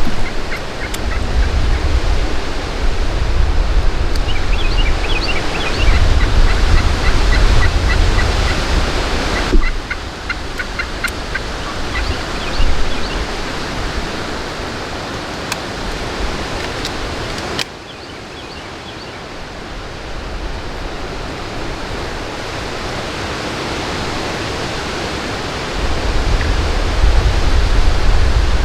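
Wild turkeys gobbling several times, each call a quick rattling run of notes, mostly in the first half. Strong wind rumbles on the microphone throughout.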